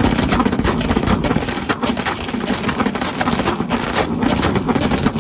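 Car engine running at a fairly steady speed, its pitch wavering slightly, with dense irregular crackling clicks over it.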